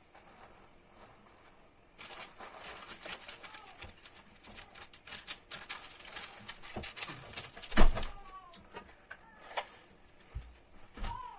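Dense clicking and rustling of hands working in a kitchen, with one loud knock about eight seconds in, and a cat meowing briefly near the end.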